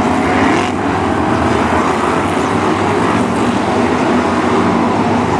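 BriscA F1 stock cars' V8 engines running hard around the track, several engines heard at once and overlapping in a steady, wavering drone.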